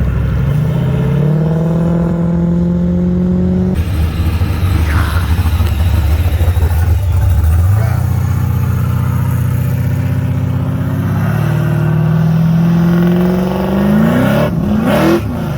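Car engines accelerating hard, the pitch rising and levelling off several times. Near the end comes a steep rev climb that cuts off suddenly.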